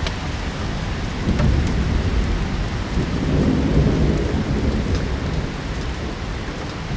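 Steady rain with a low rumble of thunder that swells about a second in and fades away over the next few seconds. Light sparse crackles of a fireplace sound over the rain.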